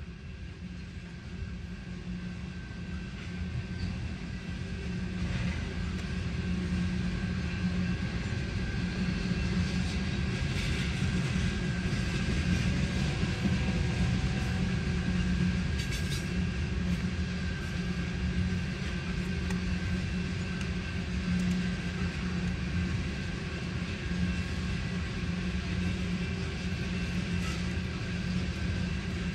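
Freight train of loaded oil tank cars rolling past on the rails: a steady rumble of wheels on track, heard from inside a car through the windshield. It grows louder over the first several seconds, then holds steady.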